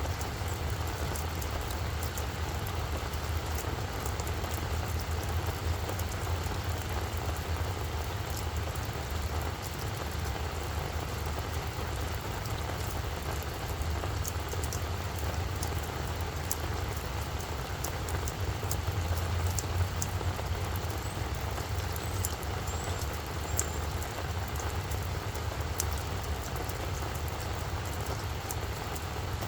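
Steady rain falling on a flower bed, with scattered sharp drop ticks, over a constant low rumble.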